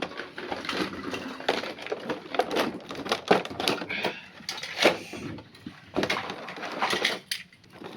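Packaging and a plastic toy truck playset being handled as it comes out of its box: irregular crinkling, clicks and knocks.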